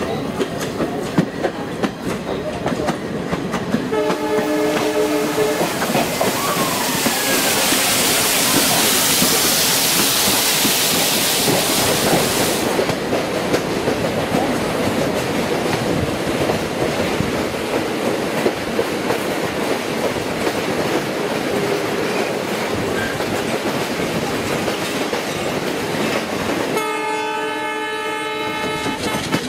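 A diesel-hauled passenger train running on the track with a steady clatter, and its locomotive horn sounding twice: a blast of about two seconds a few seconds in and another long blast near the end. In between, a loud rushing hiss rises over the running noise for about five seconds.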